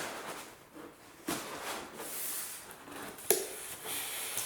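Rustling and rubbing of self-adhesive vinyl film being handled and smoothed down on a foam board, with two sharper rubbing sounds about a second in and a little past three seconds.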